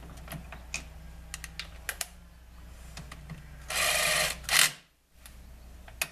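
Light metallic clicks and clinks of bolts and tools being handled on a lathe chuck, over a low steady hum. A little past halfway comes a short, loud burst of noise lasting about half a second, followed by one sharp knock.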